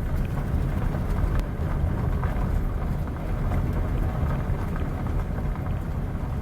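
Steady low rumble of a moving vehicle, road and engine noise, with a few faint ticks.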